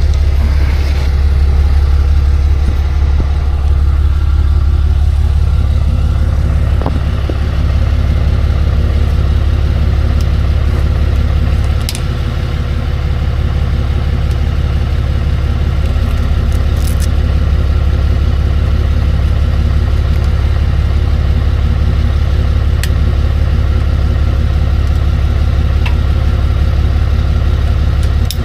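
Truck engine idling steadily, a deep even hum, with a few sharp metallic clicks from tools at work.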